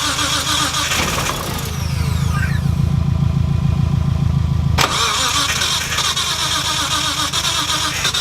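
Turbocharged, heavily modified car engine (Garrett GTX3584RS turbo, 1700cc injectors, 4-inch exhaust) being started and running on its first start-up for its Haltech tune. The sound changes abruptly about five seconds in.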